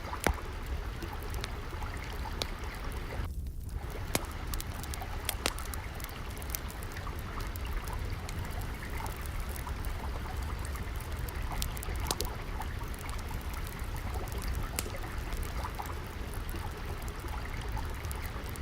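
Steadily trickling, flowing water, with sharp crackles of a wood fire scattered throughout.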